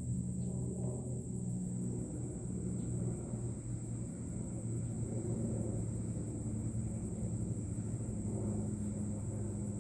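A steady low engine-like drone with a few held pitches that drift slightly, under a constant thin high whine.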